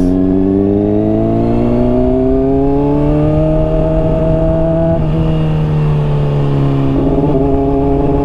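Honda CBR600RR inline-four through a Hotbodies Stinger slip-on exhaust, heard from the rider's helmet while riding. The revs climb steadily for about five seconds, ease off a little, and then jump up in pitch about seven seconds in.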